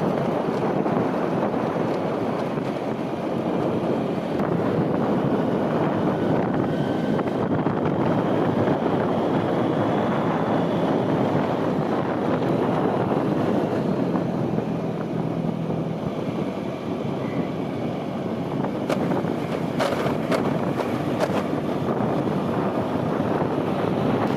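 Steady road and wind noise from a moving vehicle, with wind buffeting the microphone, and a few brief sharp ticks about twenty seconds in.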